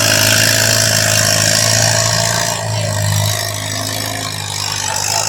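A mud bog vehicle's large engine running loud and steady, easing off a little past halfway.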